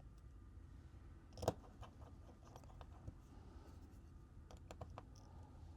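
Faint clicks and taps of small phone parts and tools being handled during reassembly, with one sharper tap about a second and a half in and a few small clicks near the end, over a low room hum.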